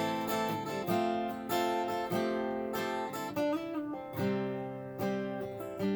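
Background music: acoustic guitar strumming and plucking chords in a steady rhythm.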